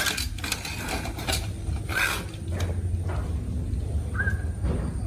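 Irregular clicks, knocks and rattles of a broken hair dryer's plastic casing and small parts being handled and worked on by hand, over a low steady hum.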